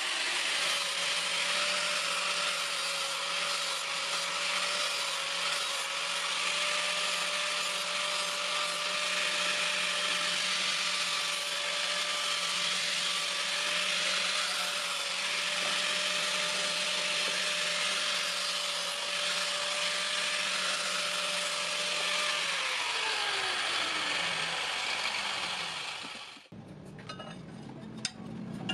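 Electric grinder running steadily with a hiss of steel being ground. About 22 seconds in it is switched off and its pitch falls as it winds down, stopping about four seconds later.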